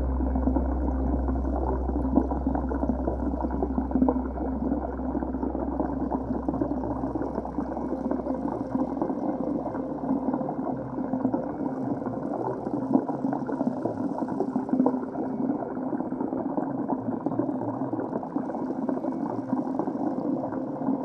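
Water heard underwater: a muffled, dense rushing and bubbling, with a low rumble that fades out about halfway through.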